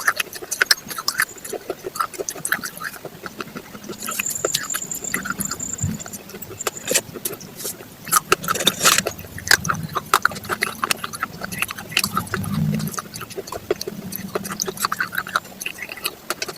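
Raw vegetables being chewed, a dense run of crisp crunches and snaps.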